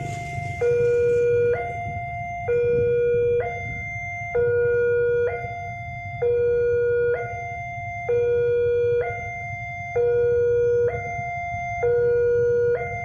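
Railway level-crossing warning alarm sounding a steady two-tone alternation, a louder lower tone then a higher one, each about a second long, signalling an approaching train. A low rumble runs underneath.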